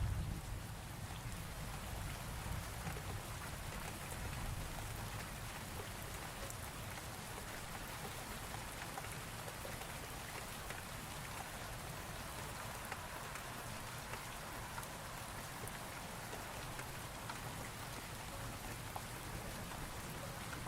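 Steady rainfall from a thunderstorm ambience recording, an even hiss of rain with a steady low rumble underneath.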